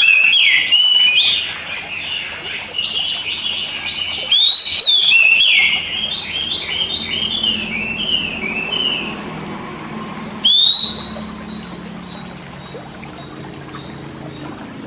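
Oriental magpie-robin song: loud upward-sweeping whistles, the first two followed by runs of quick, varied warbling notes. Near the end a rising whistle leads into a steady series of short, evenly repeated notes.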